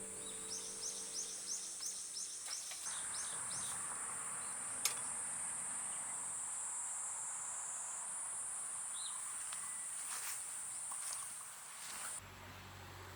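Insects trilling steadily at a high pitch, after a run of short, quick, high chirps in the first few seconds. There is a single sharp click about five seconds in. The trill stops abruptly near the end.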